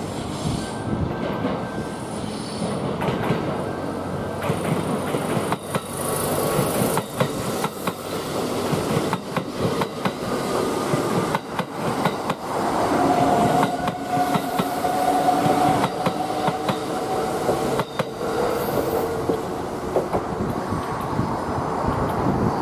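Kintetsu 23000 series Ise-Shima Liner six-car limited express passing slowly through a station. Its wheels clack over the rail joints again and again, with a steady ringing tone for a few seconds past the middle.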